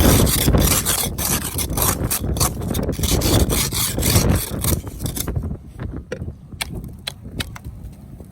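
Repeated crunching scrapes in snow, several a second, thinning out and growing quieter about five seconds in.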